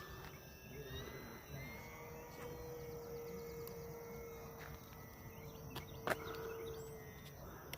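Faint whine of the FMS Cessna 182 RC plane's electric motor and propeller in flight: a steady tone that rises slightly about a second in, holds, and fades near the end. Insects are buzzing underneath, and there are a couple of sharp clicks.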